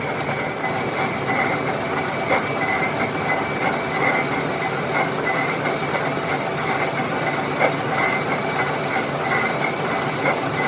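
Metal lathe running and cutting a cast iron V-belt pulley: steady machining noise with a constant high-pitched tone and a couple of sharp clicks.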